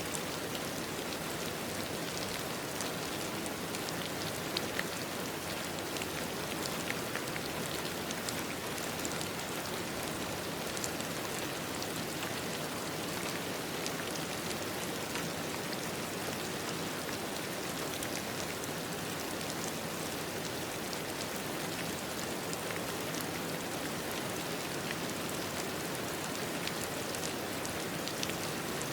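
Steady rain falling, a dense even patter with many small drop ticks on a surface.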